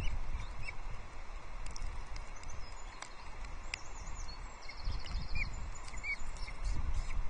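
Wind buffeting the nest camera's microphone in gusts, easing a little midway and building again near the end, with faint high bird chirps and a brief buzzing trill over it.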